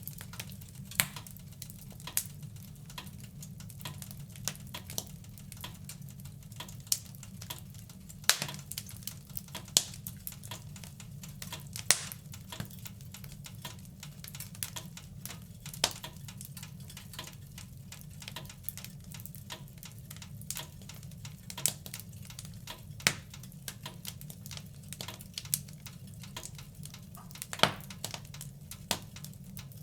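Wood fire in a fireplace crackling: irregular sharp pops and snaps, a few of them louder, over a steady low rumble of the flames.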